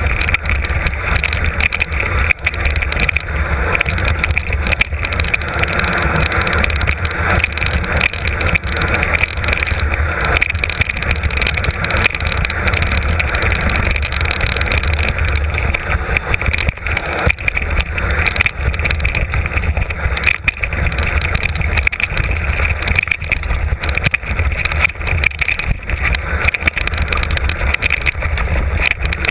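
Mountain bike descending a rough trail, heard from an on-board camera: continuous tyre noise and rattling knocks over the rough ground, with wind buffeting the microphone.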